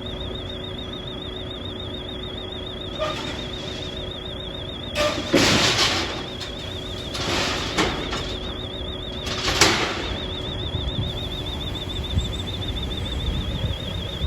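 Steady machinery hum from the car transporter being unloaded, broken by four short noisy rushes, the loudest about five seconds in.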